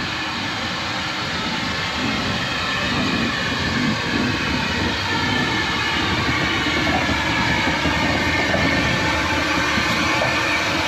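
Heritage railway train running along the track: the steady rumble and rattle of the carriage, growing a little louder about two seconds in.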